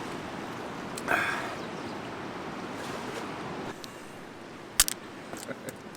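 Steady rushing of river water, with a short sound about a second in and a single sharp click near the end.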